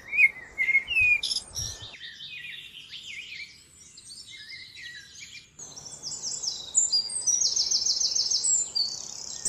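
Several birds chirping and singing, short high calls overlapping one another, with a fast trill of quickly repeated notes a little before the end.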